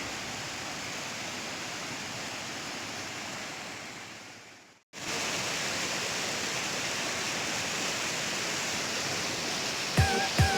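Steady rush of fast river water over rapids. It fades out about halfway through, cuts to silence for a moment, then comes back a little louder. Music starts just before the end.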